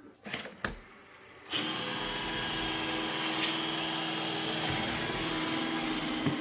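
iRobot Roomba E6 robot vacuum starting its cleaning run: a couple of clicks, then about a second and a half in its vacuum motor and brushes switch on and run steadily, with a high whine over the hum.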